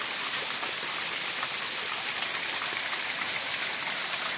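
Small mountain waterfall falling and splashing steadily, an even rush of water with most of its energy high up.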